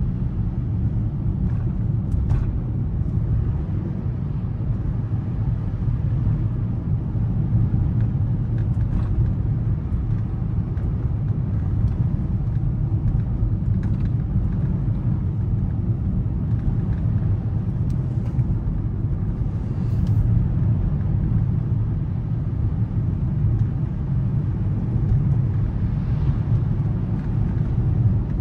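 Steady low rumble of tyres and drivetrain heard inside the cabin of a 2024 Volkswagen Atlas driving on a snowy road, with a few faint ticks now and then.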